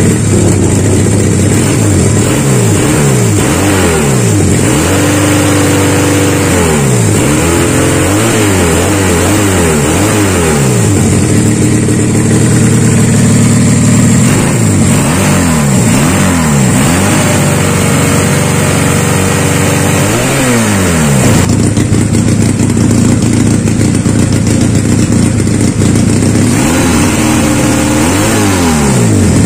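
Custom two-cylinder engine of a Honda Supra motorcycle being revved in repeated throttle blips, its pitch rising and falling with each blip between stretches of idle.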